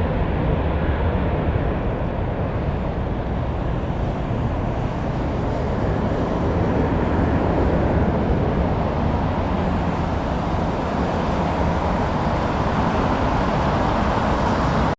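Jet airliner's engines at takeoff power during the climb-out: a steady, dense rumble and rush of engine and air noise, heaviest in the low range.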